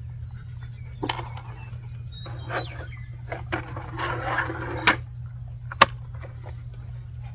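Painting kit and paintbrushes being handled: scattered light knocks and clicks, a stretch of rubbing and rustling about halfway through, and a sharp click near the end, over a steady low hum.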